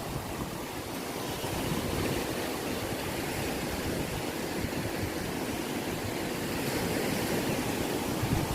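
Ocean waves washing on the shore as a steady surf roar, swelling slightly toward the end, with some wind on the microphone.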